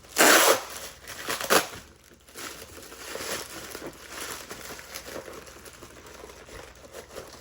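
Packaging crinkling and rustling as a small carved stone bird is unwrapped by hand: two loud crinkles in the first second and a half, then softer, steady crinkling.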